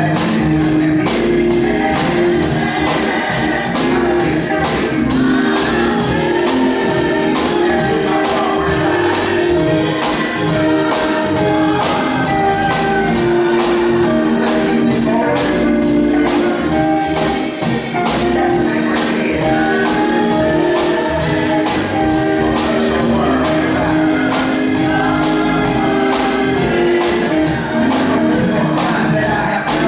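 Gospel music: singing over instruments with a tambourine shaking a steady beat.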